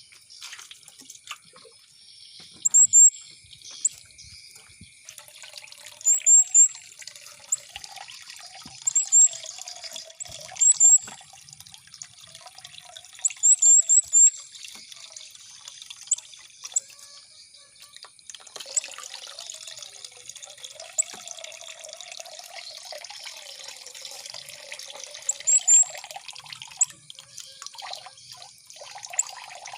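Running, trickling water, with a small bird's short, very high chirps in quick groups of two or three every few seconds; the chirps are the loudest sound. A faint steady high-pitched tone runs under it all.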